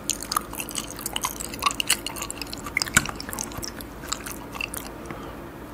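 Close-miked chewing of raw fish sashimi: a run of small, irregular wet clicks and squishes from the mouth, busy at first and thinning out over the last second or two.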